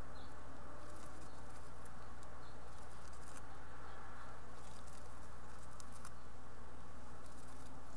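House finch fledglings scratching and shuffling on the floor of a wooden nest box in short, scattered bursts, with a few faint high chirps, over a steady low hum.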